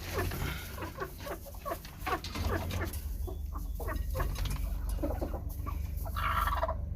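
Broody hen clucking in quick runs of short, falling clucks, thickest in the first few seconds, then a longer, higher call about six seconds in.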